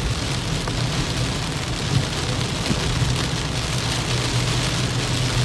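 Heavy rain hitting a moving car, over a steady low drone of tyres and engine on the road.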